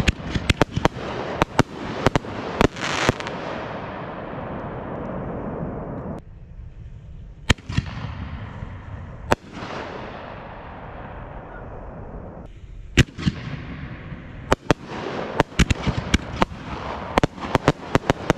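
Fireworks going off: rapid volleys of sharp bangs, each followed by a crackling that fades. A few single bangs come in the middle, and another dense volley comes near the end.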